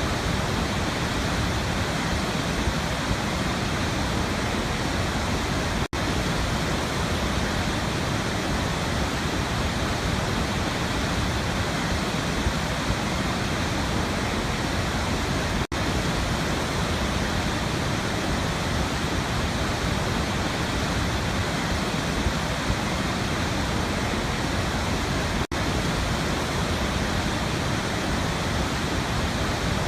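Waterfall: a steady, dense rush of falling water, broken by three very brief dropouts about ten seconds apart.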